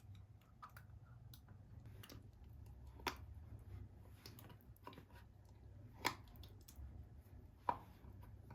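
Quiet handling sounds: scattered light clicks and taps, with three sharper clicks about three, six and seven and a half seconds in, over a faint low hum.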